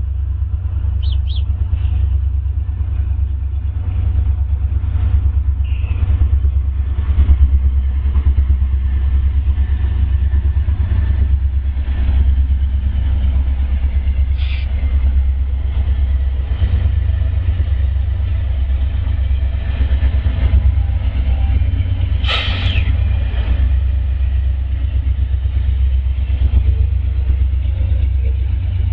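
Freight train passing, its diesel-electric locomotives working under power with a steady low rumble, followed by autorack cars rolling by. A short, sharp high-pitched sound about two-thirds of the way through.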